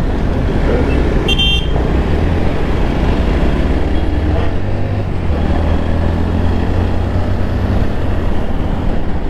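Road traffic at a signal: a steady low rumble of vehicle engines and traffic noise, with one short horn toot about a second and a half in.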